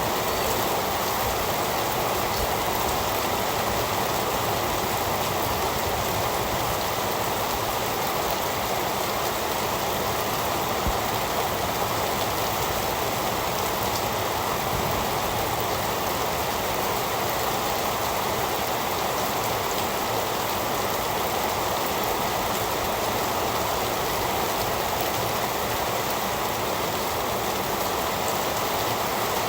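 Steady heavy rain, a dense even hiss of drops falling on surfaces that does not change.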